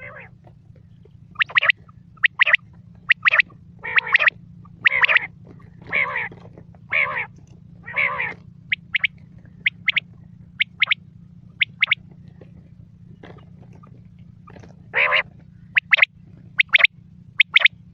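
Quail (batair) calling: a run of short, sharp, high call notes, often in quick pairs, with a stretch of longer, fuller notes about once a second from about 4 to 8 seconds in. A steady low hum lies underneath.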